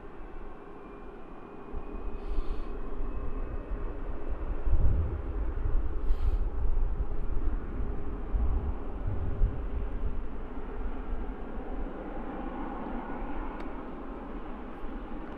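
Distant jet aircraft engines running, a steady noise with a hum, growing louder about four seconds in and easing off after ten seconds, with gusts of wind rumbling on the microphone.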